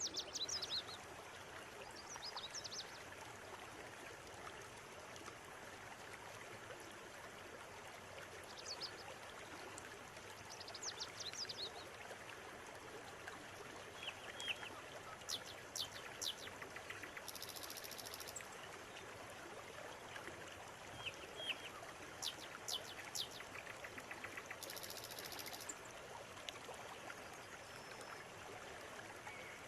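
River water running steadily, with small birds giving quick clusters of high chirps over it. There are also two short, very high buzzy trills.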